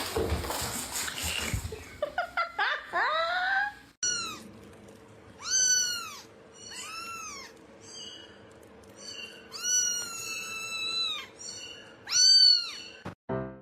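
A cat meowing several times, each meow rising and then falling in pitch, with one drawn-out meow about ten seconds in.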